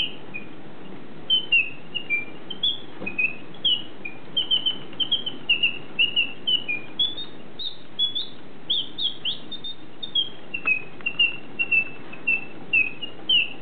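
A bird chirping: a long, continuous series of short, high notes at a few per second. Some notes sweep sharply up or down, most densely near the middle.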